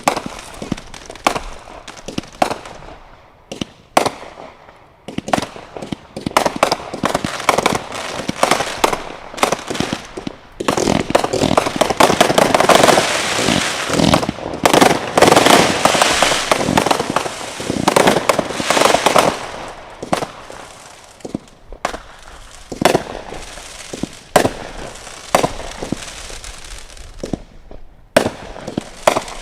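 Fireworks going off: a string of sharp bangs that thickens in the middle into several seconds of dense, rapid reports and crackling, then thins back to scattered bangs.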